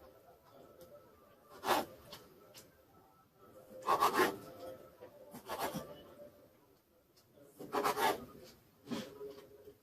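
Knife slicing raw chicken breast on a cutting board: about five short rasping strokes, one to two seconds apart.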